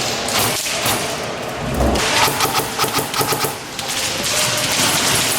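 Airsoft guns firing rapid full-auto bursts, a fast clatter of shots that grows denser after about two seconds. There is a dull thump just before that.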